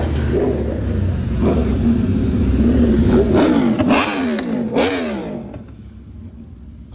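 Car engine revving hard, its pitch climbing and falling several times in quick succession, then the sound drops away abruptly about five and a half seconds in.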